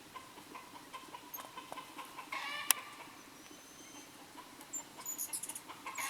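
Chickens clucking, a short call strongest a little under halfway through, with one sharp click and a few high, thin chirps near the end.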